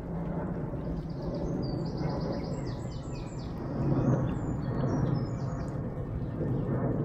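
A songbird singing a run of quick, high repeated notes and varied phrases for a few seconds, over a steady low rumbling background noise.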